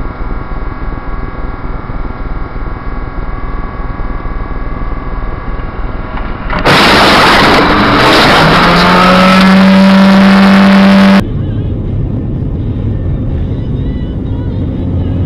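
A vehicle engine running steadily. About seven seconds in, a very loud, harsh noise lasts for around four seconds, with a tone that rises and then holds, and cuts off abruptly. Engine noise follows.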